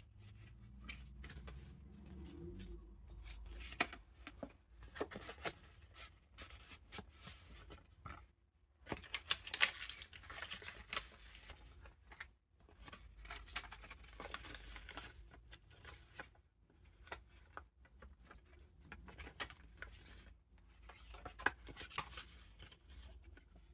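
Paper pages of a handmade junk journal being turned and handled: rustling, crinkling and small ticks of paper and card, busiest about ten seconds in.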